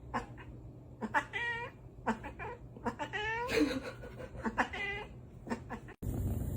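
A cat meowing repeatedly in a string of short and drawn-out, wavering yowls. The calls stop abruptly about six seconds in, giving way to a steady background hiss.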